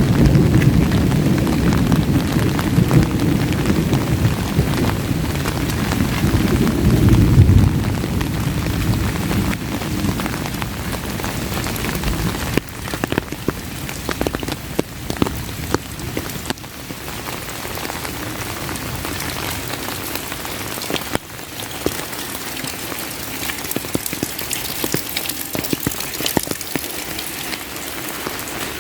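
Heavy rain falling, with a low rumble of thunder rolling and fading away over the first several seconds. After that, steady rain with the patter of individual drops.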